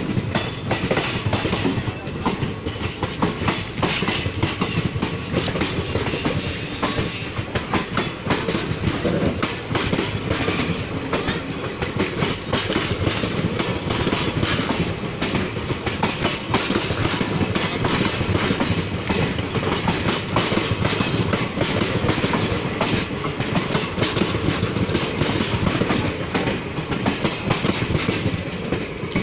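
Indian Railways passenger coaches running through a station at speed. The wheels clatter in a dense, steady clickety-clack over the rail joints, under a continuous rumble of the passing rake.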